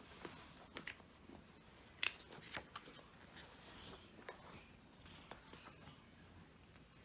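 Faint rustling and soft clicks of glossy photobook pages being handled and turned, with a sharper tap about two seconds in.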